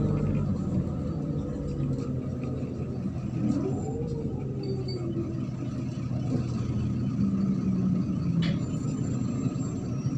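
MAZ-103 city bus under way, heard from inside: a steady low engine and drivetrain drone with road rumble.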